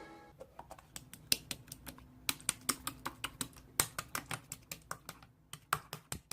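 A run of faint, irregular clicks at a few a second, like typing on a keyboard, starting right after music stops.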